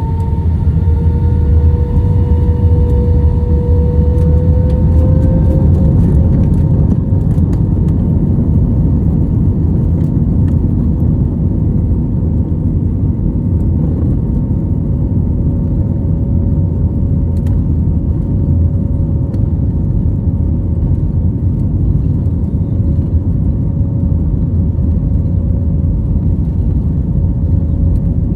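Jet engines of an Airbus A320-family airliner at takeoff power, heard from inside the passenger cabin. A loud steady rumble carries a thin whine that rises slightly over the first few seconds as the engines spool up, then holds steady.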